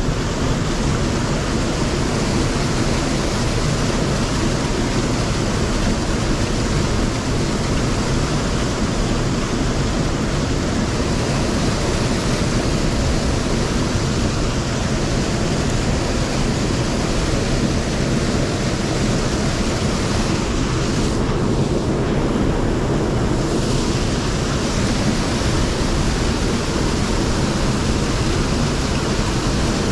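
Steady rushing of a mountain stream, an even, unbroken water noise.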